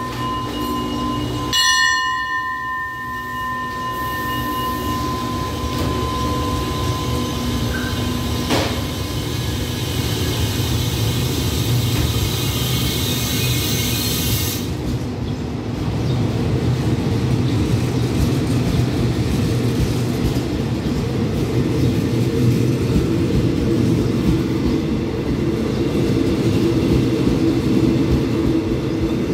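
Diesel-hauled passenger express train pulling out of the station, a low rumble that grows as the coaches start to roll past, louder from about fifteen seconds in. During the first eight seconds a steady high tone also sounds, with a short sharp sound about two seconds in.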